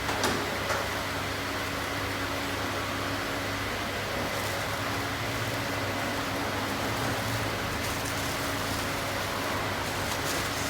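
Steady mechanical hum, like a fan or air conditioner running, with a couple of light clicks just after the start.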